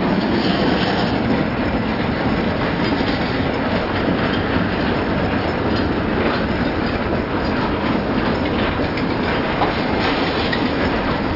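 Freight train cars rolling past close by: a steady, loud noise of steel wheels on the rails, with occasional clicks as the wheels pass over rail joints.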